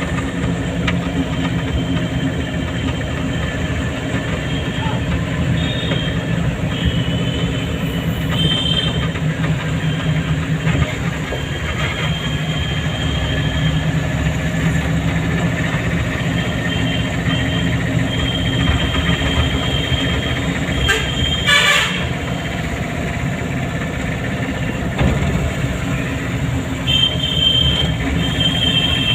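Car engine running steadily while driving, with short high-pitched tones sounding on and off and a brief clatter about two-thirds of the way through.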